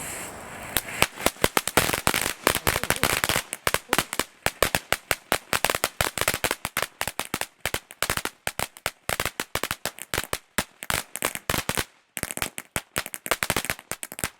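A consumer garden firework crackling: a hiss, then from about a second in a rapid, loud run of sharp cracks, several a second. The cracks break off briefly near the end, then start again.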